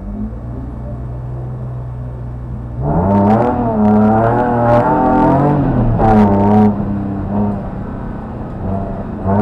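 BMW race car engine heard from inside the cockpit, held at a steady raised idle, then from about three seconds in revving hard as the car launches off the start line, its pitch climbing and dropping several times as it accelerates away.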